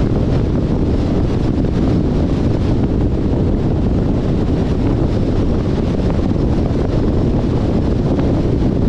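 Steady wind rush on the microphone mixed with road and tyre noise from a 2021 Jeep Compass driving at speed, even and unbroken.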